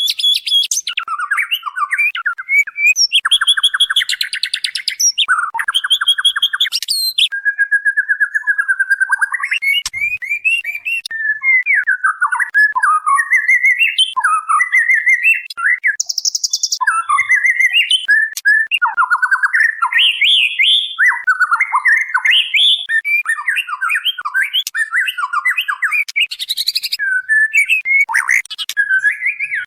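Female white-rumped shama (murai batu) calling: a continuous, rapid run of varied whistled and chattering phrases with harsh buzzy notes in places, the female call used to lure a male into answering.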